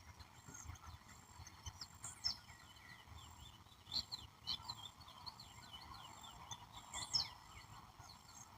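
Several birds calling and singing together in a dense chorus of short, quick chirps and falling notes, with louder phrases about two, four and seven seconds in, over a steady background of insects.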